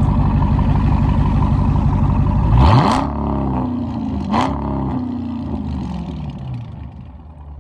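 Dodge Scat Pack's 392 HEMI V8, with its resonators deleted and its stock rear mufflers still on, running at a steady low rumble. About two and a half seconds in it is revved sharply; it falls back, gets a second quick rev about a second and a half later, then settles down toward idle.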